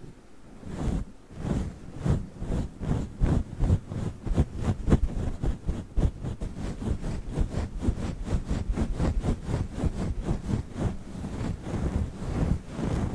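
Fluffy microphone windscreen being rubbed and scratched right on the mic in quick repeated strokes, giving a rustling, muffled sound with a heavy low rumble. The strokes start about a second in and run on at several a second.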